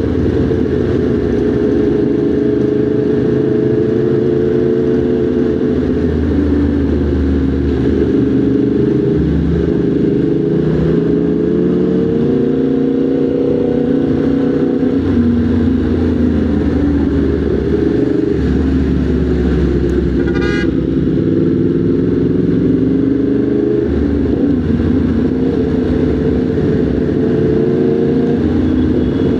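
Motorcycle engine running under way in traffic, its pitch rising and falling with the throttle. A brief high-pitched sound cuts in about twenty seconds in.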